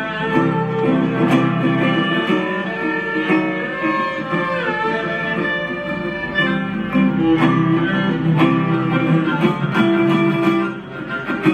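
Live acoustic band playing an instrumental passage without vocals, with guitar to the fore.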